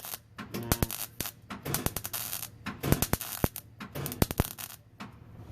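Irregular sharp knocks and clatter from work on the exhaust parts, coming in quick clusters with short hissing rushes between them.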